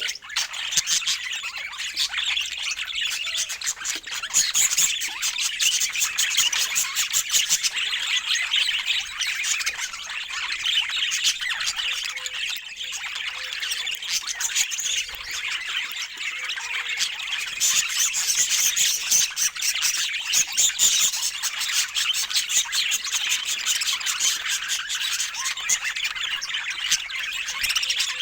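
Budgerigars chattering and warbling without pause, a dense stream of quick chirps and squawks.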